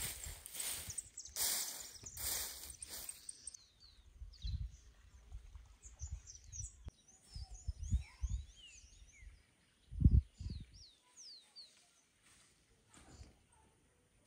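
Small birds chirping in many short, quick falling notes, after a few seconds of rustling. A few low thumps, the loudest about ten seconds in.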